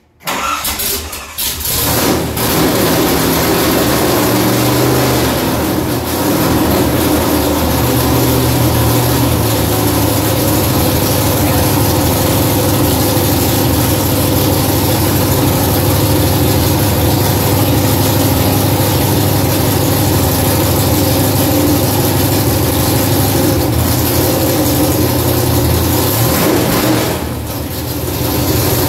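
Freshly assembled 1967 Camaro Z28 302 small-block V8 firing up for the first time: it catches almost at once, stumbles for a second or two, then runs steadily through open headers. Near the end the engine speed dips briefly and picks back up.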